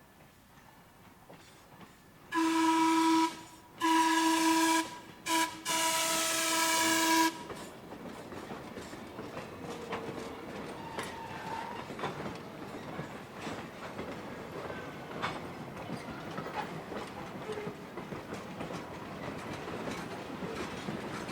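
Steam whistle of Lehigh Valley Coal Company 0-6-0T saddle-tank locomotive No. 126 blowing long, long, short, long, the grade-crossing signal. After it the train rolls closer with wheels clicking over the rail joints, slowly growing louder.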